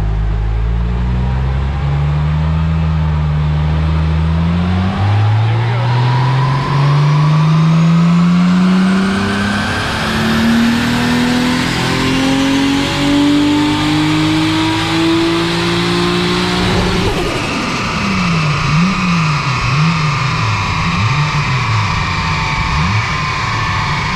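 Toyota 2JZ-GTE turbocharged straight-six in a Supra making a full-throttle pull on a chassis dyno, on its base street tune. The revs climb steadily for about twelve seconds, then cut off suddenly as the throttle closes, and the engine falls back with the revs rising and falling a few times. This pull showed the engine running a bit rich at the top end.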